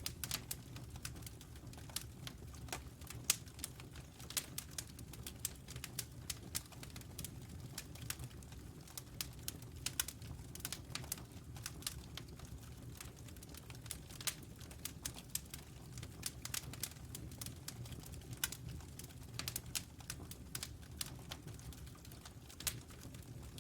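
Wood fire crackling: irregular sharp pops and snaps over a low, steady rumble of the burning fire.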